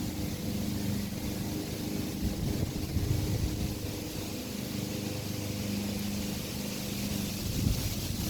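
A motor running steadily, a low, even hum that holds one pitch throughout.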